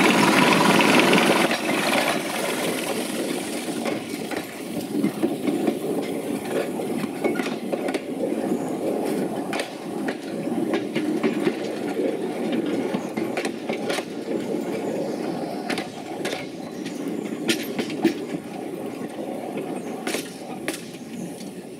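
A small 600 mm narrow-gauge locomotive's engine passes close, then its coaches roll by with a steady rumble and many sharp wheel clicks over the rail joints and points, fading as the train draws away.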